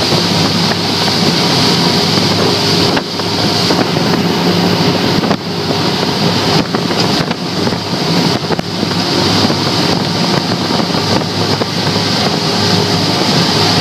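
Twin Yamaha 350 V8 outboards running at speed, with wind buffeting the microphone. The steady din has a few brief dips.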